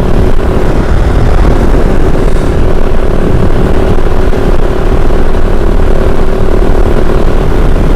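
Kove 450 Rally motorcycle riding steadily, its single-cylinder engine running under a loud, even rush of wind on the rider's microphone.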